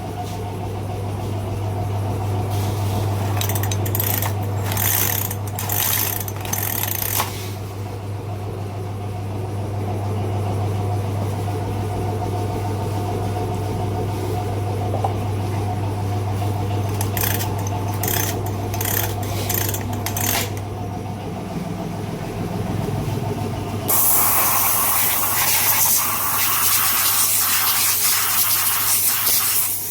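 A steady low machine hum with short bursts of clattering. About three-quarters of the way through, a loud, even rushing hiss starts.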